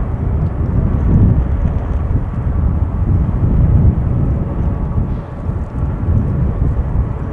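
Boeing 747-400 freighter's four Pratt & Whitney PW4056 jet engines running: a loud, steady low rumble with faint steady tones above it.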